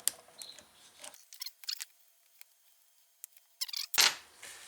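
Light metallic clicks and clinks of a wrench working a 10 mm bolt on a golf cart starter/generator's end cap, with one louder clunk about four seconds in.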